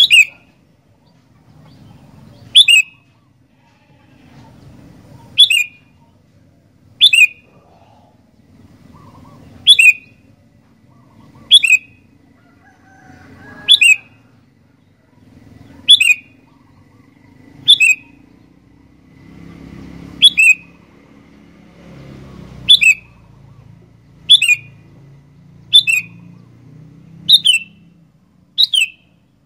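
Sooty-headed bulbul (kutilang) repeating a short, sharp, loud call about every two seconds, each call dropping quickly in pitch, with faint low background noise between calls.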